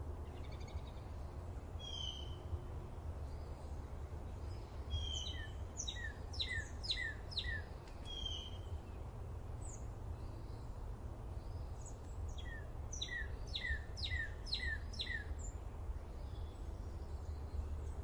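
Small birds calling: scattered single chirps and two strings of five or six quick, sharp downward chirps, one about a third of the way through and one about three quarters through. Under them runs a steady low rumble.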